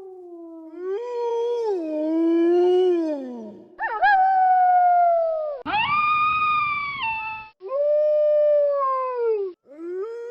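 Wolves howling: a run of about five long howls one after another, each sliding up or down in pitch, with short breaks between them.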